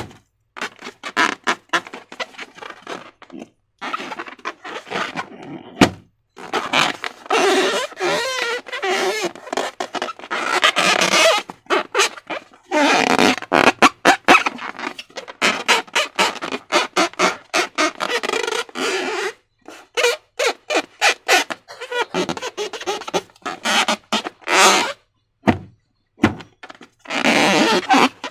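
Slime being worked by hand, squished and stretched: wet squishing with runs of sticky clicks and pops, coming in bursts of a few seconds with short pauses between.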